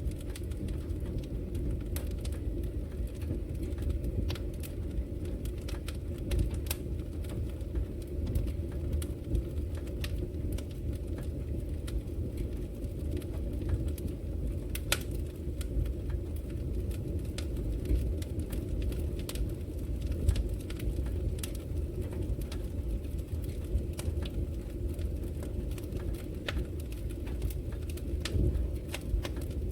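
Wood logs burning in a fireplace: a steady low rumble of the flames with frequent sharp crackles and pops scattered irregularly throughout.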